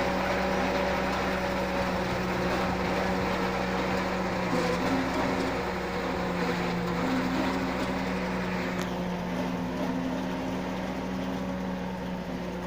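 Tractor engine running steadily under load, driving a tractor-mounted Napier grass (forage) harvester, with a mechanical hum and a rush of noise.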